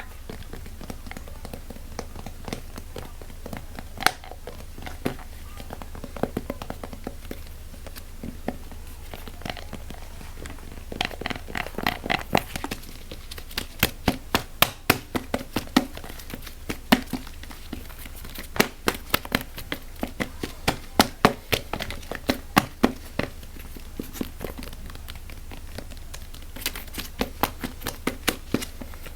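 Fast, irregular tapping and clicking on an object, in quick clusters of sharp taps, made as ASMR triggers; a steady low hum sits underneath.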